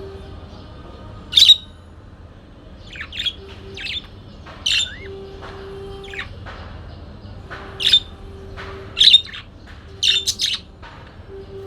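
Parakeet chirping: about ten short, sharp, high chirps at irregular intervals, several coming in quick pairs near the end.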